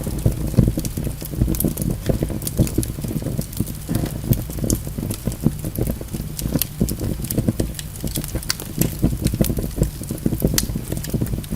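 Burning log fire: a steady low rumble of flame with many sharp, irregular crackles and pops from the wood.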